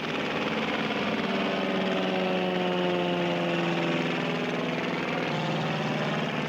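A small propeller-driven aircraft's engine running steadily in flight, its pitch drifting slowly down and up.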